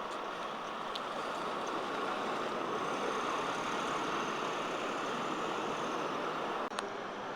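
Articulated city bus on the move: a steady rush of road and running noise, with a brief sharp click near the end.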